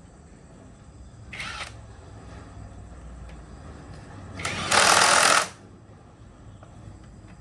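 Two bursts of a power tool in the workshop: a short one, then a louder one lasting about a second.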